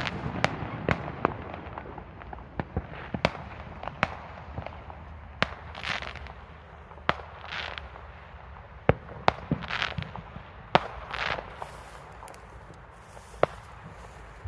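Fireworks going off: sharp bangs and pops at irregular intervals, with a few short hissing swells in the middle stretch.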